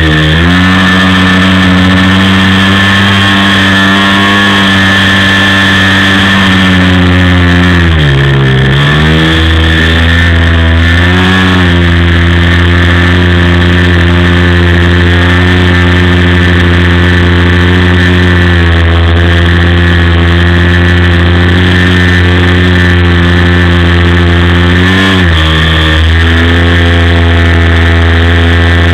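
OS FS-56 four-stroke glow engine of a Great Planes Cherokee RC plane running steadily at high throttle. Its pitch drops as the throttle eases about eight seconds in and picks back up within a couple of seconds, with a second brief dip near the end.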